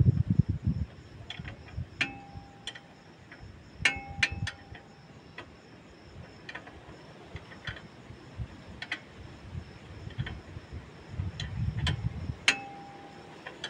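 Scattered metallic clicks and taps from hand tools and parts being handled during a disc brake pad job, three of them clinks that ring briefly, about two, four and twelve seconds in.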